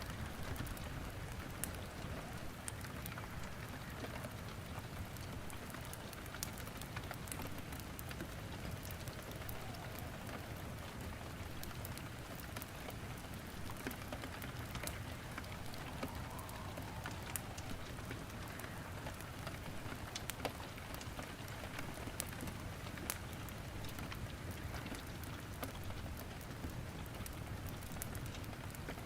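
Steady rain falling, with scattered sharp crackles of wood burning in a fireplace.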